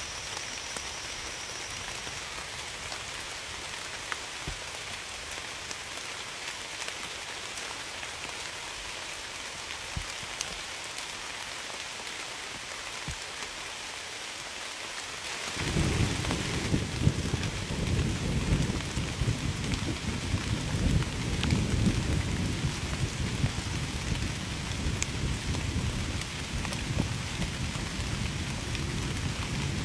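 Steady rain falling, with scattered drips. About halfway through, a low rumble of thunder begins and keeps rolling.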